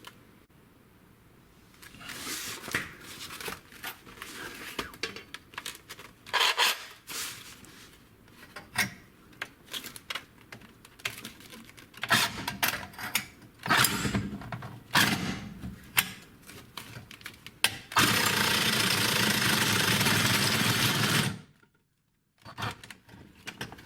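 Reciprocating saw with a carbide-tooth blade cutting through an old steel exhaust pipe in short, uneven bursts mixed with knocks, then one steady run of about three seconds near the end that cuts off abruptly.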